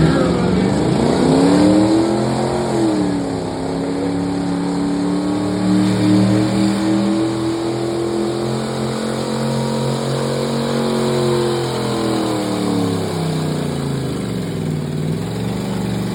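Competition pulling truck's engine revving up hard and held at high revs under load through the pull. The revs sag about two thirds of the way through, then pick up slightly again.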